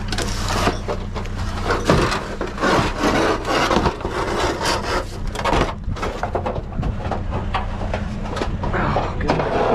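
Junk being dug through and dragged in a dumpster to free a buried piece of scrap metal: continuous scraping and rubbing with scattered knocks and clatters. A steady low hum runs underneath.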